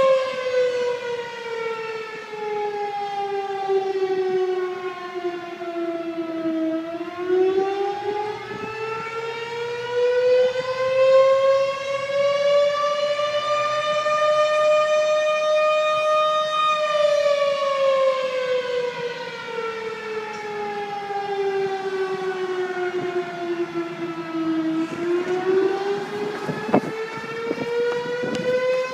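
Fire engine siren wailing in a slow cycle: the pitch falls for about seven seconds, rises for about eight, holds briefly at the top, falls again and starts rising near the end. A few sharp knocks sound near the end.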